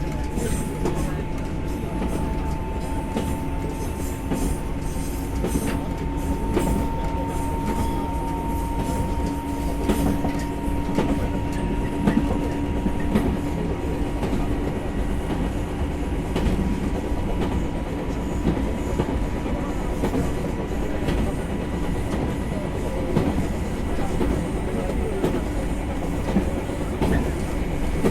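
JR 123-series single-car electric train KuMoHa 123-1 running, heard from just behind the driver's cab. A steady whine rises slowly in pitch over the first ten seconds or so and then holds, over wheel rumble and the clickety-clack of rail joints.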